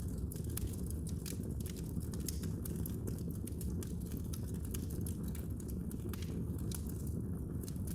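Fire in a fireplace crackling: many quick, irregular pops and snaps over a steady low rumble.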